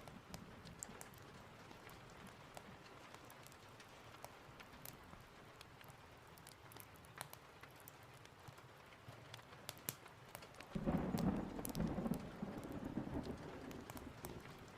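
Steady rain with scattered sharp clicks and crackles, and a roll of thunder about eleven seconds in that swells quickly and fades over a few seconds.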